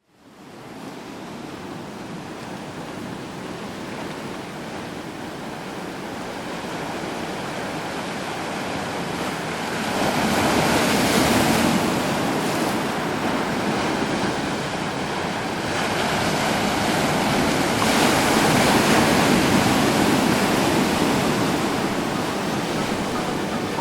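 Ocean surf: a steady wash of breaking waves that fades in at the start and swells louder twice, about ten seconds in and again near eighteen seconds.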